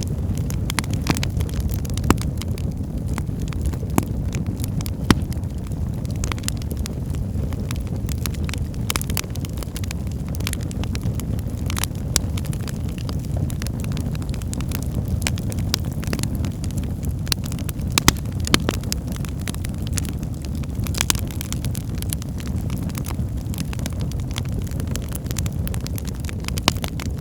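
Wood fire burning in a fireplace: a steady low rumble of flames with frequent irregular crackles and pops, a few of them sharper and louder.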